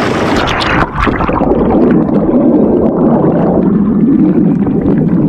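Small action camera plunged into a rushing river and held underwater: a brief splashing as it goes in, then about a second in the sound turns muffled, a loud low churning of the current with the high end cut off.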